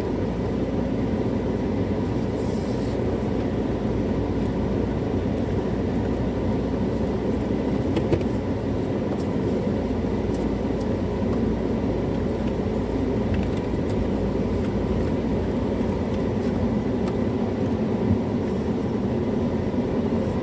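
A steady low mechanical rumble with a faint steady hum above it, and a couple of brief clicks about eight and eighteen seconds in.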